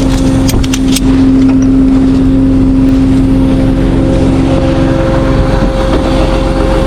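Tow truck's engine running steadily under load with a constant drone while towing a car on its wheel lift up an icy slope. A few short clicks sound in the first second.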